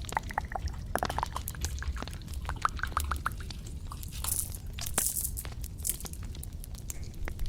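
Close-microphone ASMR trigger sounds: a quick run of small clicks and taps, some with a brief high ring, and short hissing swishes about four and five seconds in.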